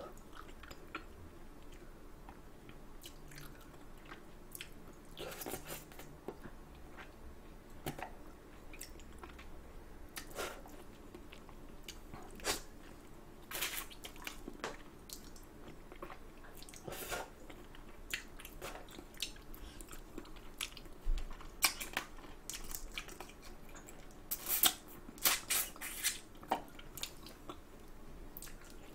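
Close-miked chewing and biting of spicy bone-in chicken feet: wet chewing with irregular sharp clicks and bites, busiest near the end.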